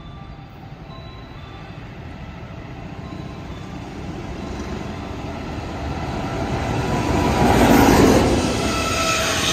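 EF210 electric locomotive hauling a container freight train, approaching and passing close by: the rumble of wheels on rail grows steadily louder, loudest about eight seconds in as the locomotive goes past, then the container wagons roll by.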